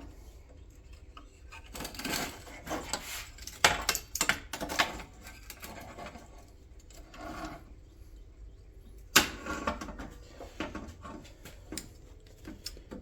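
Irregular clicks, rattles and clanks of metal parts being handled and clamped in place, with two sharper knocks, one about four seconds in and one about nine seconds in.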